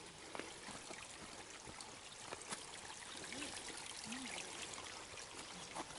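Shallow creek water trickling and flowing over rocks, a steady hiss, with a few faint clicks over it.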